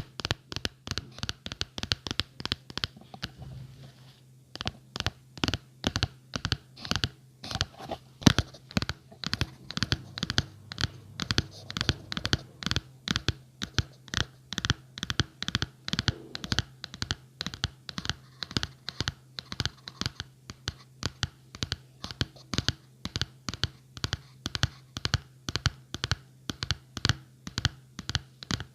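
ASMR scratching on a surface: quick, evenly repeated scratching strokes, with a brief pause about four seconds in.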